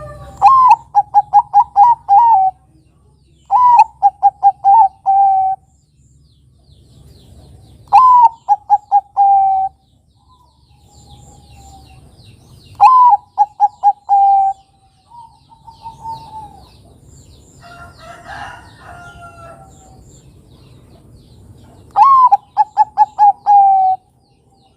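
Zebra dove (Bangkok perkutut) cooing. It sings five phrases a few seconds apart, each a rising opening note followed by a rapid run of short coos. Fainter chirps from other birds come between the phrases.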